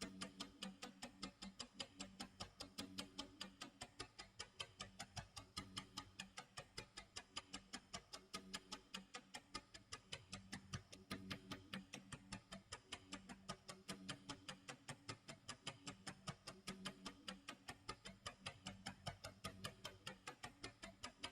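Clock tick-tock sound effect: quiet, even ticking, a few ticks a second, with faint low tones underneath.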